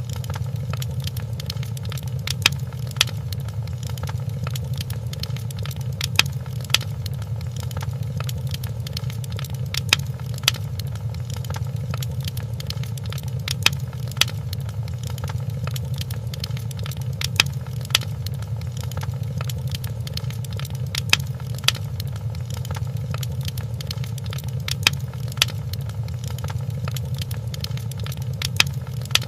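Fireplace fire crackling: a steady low rumble with sharp pops, mostly in pairs, recurring every few seconds in a repeating pattern.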